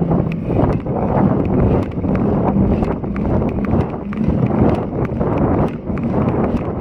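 Strong wind buffeting the microphone of a bicycle-mounted action camera while riding, a heavy rumbling rush, with many scattered sharp clicks and rattles from the bike and road.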